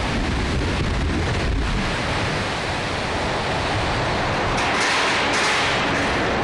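Windstorm blowing hard: a loud, continuous rushing noise with low buffeting of the wind on the microphone, and a hissing gust that swells about four and a half seconds in.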